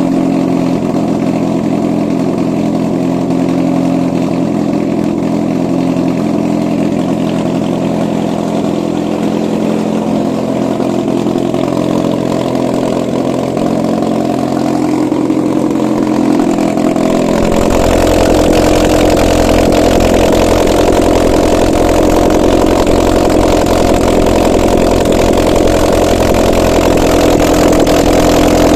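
Used Suzuki J20A 2.0-litre inline-four petrol engine running steadily on a test stand. About two-thirds of the way through it gets louder and deeper.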